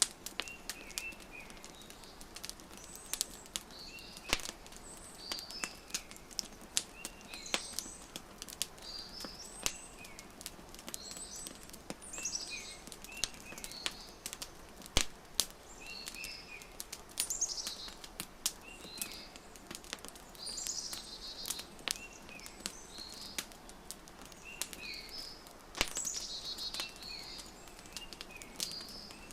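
Wood fire crackling with frequent sharp pops, the loudest about halfway through and again near the end, while songbirds chirp in short repeated notes with a few quick trills.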